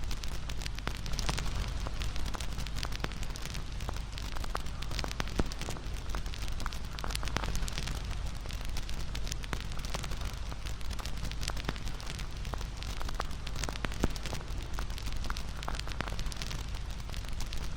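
Wood bonfire crackling and popping, sharp irregular pops and snaps over a steady low rumble of the flames, with a louder pop about five seconds in and another near fourteen seconds.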